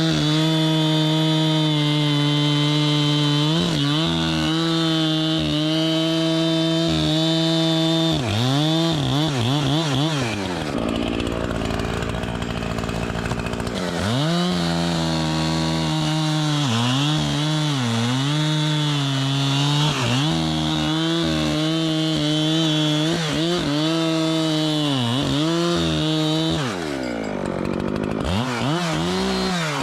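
Echo CS-7310 two-stroke chainsaw running at high revs while cutting wood, its engine pitch sagging and recovering as the chain loads up in the cut. Twice the revs fall away to a low, rough idle, about a third of the way in and again near the end, before it is throttled back up.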